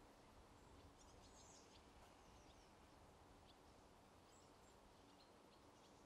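Near silence: faint outdoor background hiss with a few scattered, faint, high bird chirps.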